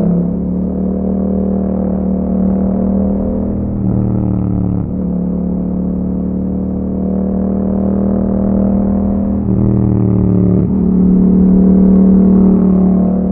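A 2021 Yamaha MT-07's 689 cc parallel-twin running through an Akrapovic exhaust while riding at steady revs. The engine note drops and changes pitch twice, about four seconds in and again near ten seconds.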